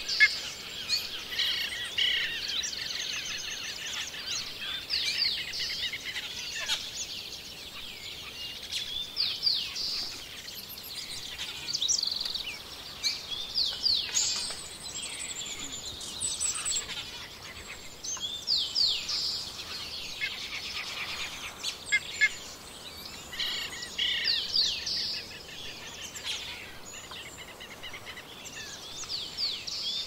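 Forest songbirds singing and calling, with many overlapping chirps and rapid trills coming in clusters every few seconds over a faint steady hiss.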